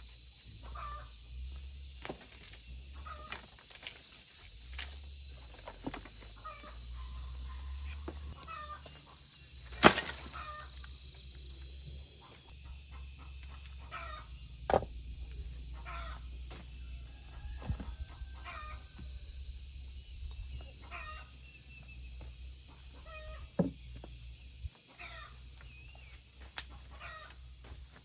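Chickens clucking on and off in short repeated calls, over a steady high hiss. Several sharp knocks stand out, the loudest about ten seconds in.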